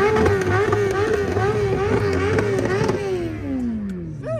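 An engine revved hard and held at high revs, the pitch wavering quickly up and down, then the throttle is released and the revs fall away steadily over the last second and a half.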